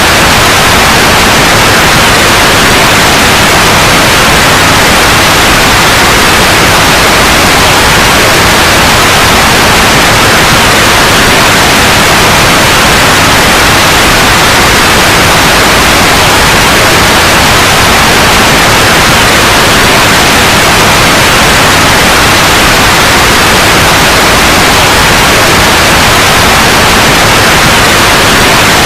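Steady, loud white noise: an even, unchanging hiss.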